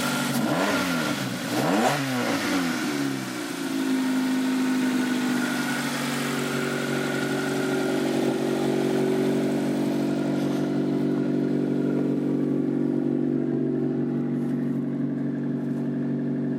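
Nissan NX1600's four-cylinder engine, just got running, revved up and back down twice in the first few seconds, then idling steadily. It makes an annoying sound.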